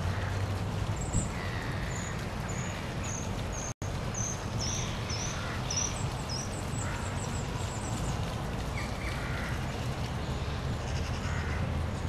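Small birds chirping, a run of short high notes about twice a second, over a steady crackly hiss with a low rumble under it. The sound cuts out completely for an instant a little before four seconds in.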